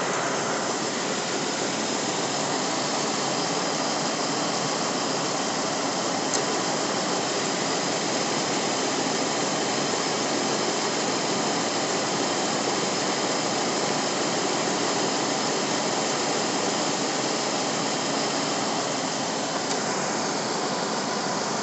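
2013 Dodge Charger engine idling with the hood open, a steady even whooshing run with its fans, with one small tick about six seconds in.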